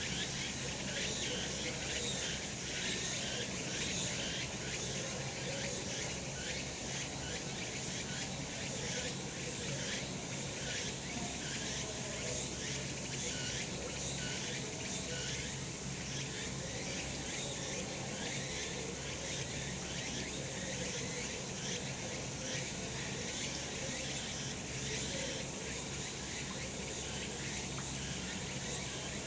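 Cicadas singing in a dense, steady chorus that holds the whole time without a break.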